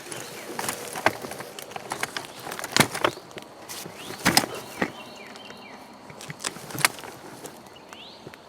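Dry leaves and twigs crackling and snapping in scattered, irregular clicks, with faint short bird calls in the background.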